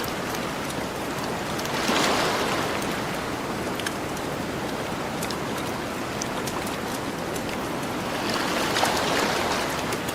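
Ocean waves washing onto a beach, a steady rush that swells twice, about two seconds in and again near the end, with the scattered small pops of a crackling campfire over it.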